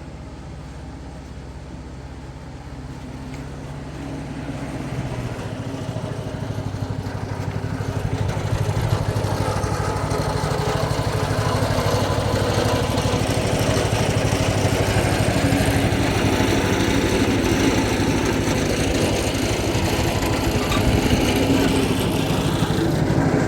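An engine running steadily, growing louder over about the first ten seconds and then holding steady.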